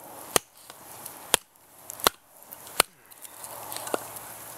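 Wood being split with a fixed-blade survival knife: about five sharp, woody knocks, roughly one a second, the last one softer.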